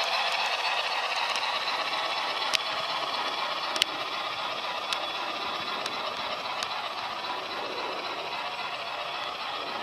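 O gauge model train, an MTH SNCF 141P 2-8-2 locomotive with CIWL carriages, running along the track. It makes a steady rolling rattle with a few sharp clicks, slowly fading.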